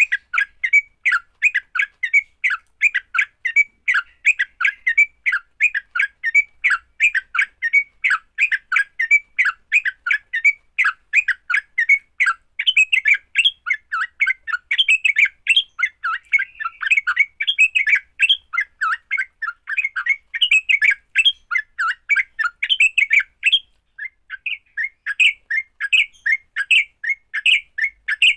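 Yellow-vented bulbul (trucuk) giving fast, continuous chattering fighting calls, several sharp notes a second, with a brief pause about 24 seconds in.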